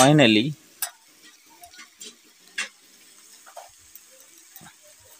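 Faint sizzling with scattered sharp crackles from methi greens and potato pieces frying in a kadhai over a wood-fired clay chulha, where the burning firewood also crackles.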